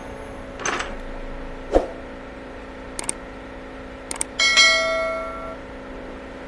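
Metal parts clicking and knocking together, then one piece rings out with a bell-like tone that fades over about a second.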